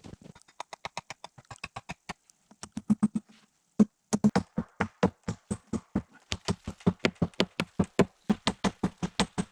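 Fast, regular strokes of a hand tool striking wood, about four or five a second, with a brief break a little after three seconds in.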